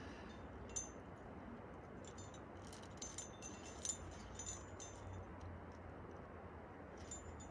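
Metal climbing gear on a trad rack, carabiners and cams, clinking and jangling in irregular little clusters, busiest in the middle, over a faint steady hiss.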